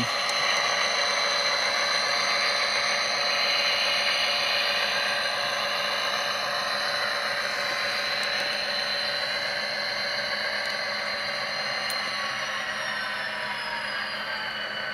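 Sound decoder in a model diesel locomotive playing EMD 645 diesel engine sound through its small speaker, running steadily and thin, with no deep bass. In the last few seconds several tones slowly fall in pitch as the engine sound winds down.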